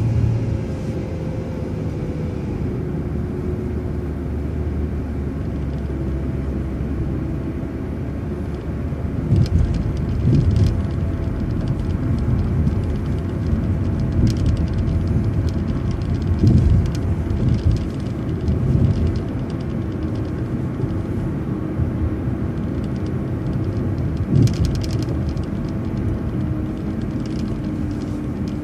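Inside a city transit bus while it drives: steady engine and road rumble with a faint, slowly drifting whine. The rumble grows heavier with bumps from about nine to nineteen seconds in, with brief rattles there and again near the end.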